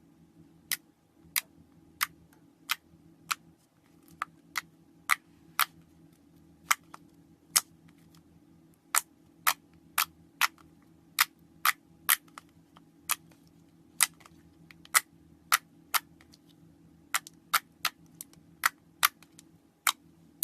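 Slime being pressed and worked by hand, giving sharp pops of trapped air at an irregular one to two a second.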